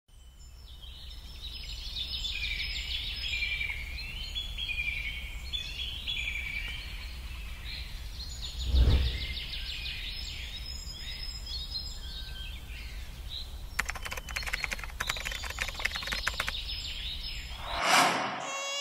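Many birds chirping and singing over a steady low rumble. A brief whoosh comes about halfway through, a couple of seconds of rapid clicking near the end, and another whoosh right at the end.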